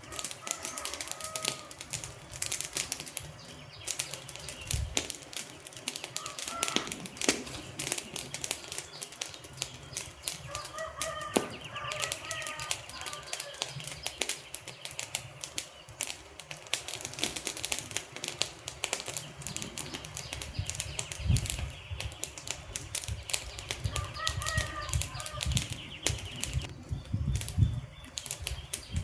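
Wood fire crackling with dense, irregular pops and snaps from burning logs. Short chirping calls come through a few times, about a second in, around 7 and 12 seconds, and near 25 seconds.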